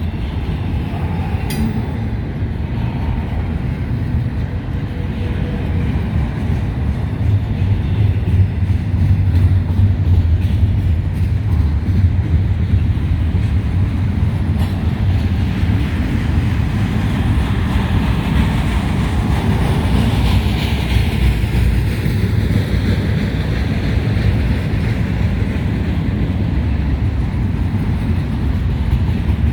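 Freight train passing close by: a steady low rumble of locomotives and rolling railcars on the track, swelling louder about seven seconds in and holding.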